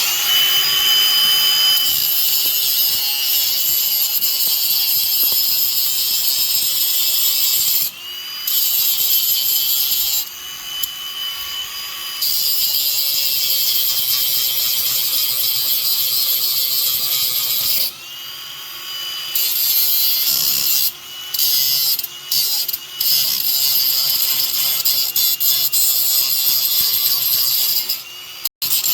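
Electric grinder running and grinding down fresh MIG welds on a go-kart frame: a steady high whine with the hiss of grinding metal. The sound drops briefly several times, about 8 and 10 seconds in, again near 18 seconds, and a few short times after that.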